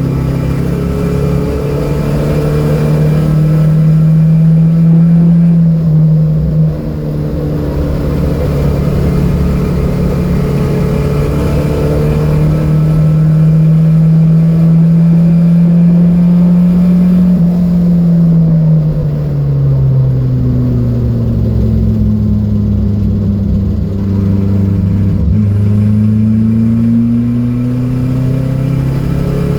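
Datsun B210's four-cylinder engine running hard, its pitch climbing over the first few seconds with a brief dip about six and a half seconds in. It holds high, falls away around eighteen seconds in, stays low for several seconds, then climbs again near the end.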